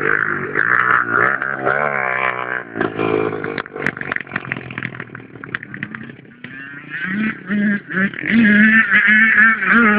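Small dirt-bike engine revving up and down, then blipped in quick short bursts over the last few seconds.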